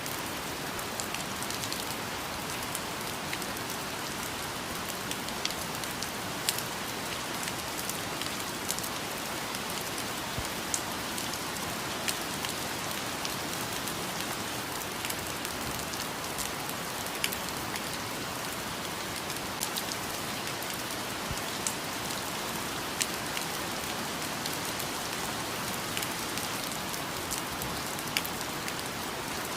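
Steady rain falling, with frequent sharp drop clicks scattered through it.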